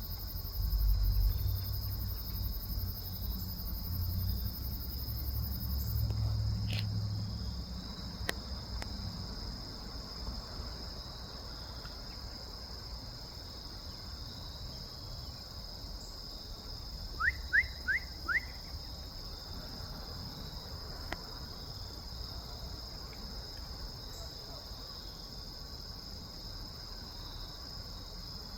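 Steady high-pitched chorus of crickets droning. A low rumble runs through the first several seconds, and four quick rising chirps come about seventeen seconds in.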